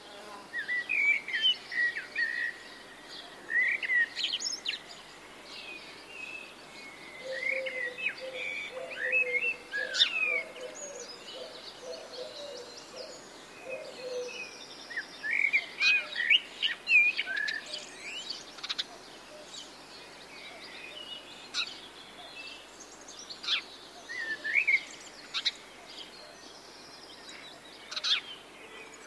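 Several songbirds chirping and singing in short, sweeping phrases, on and off throughout, with a lower-pitched run of notes for several seconds about a quarter of the way in.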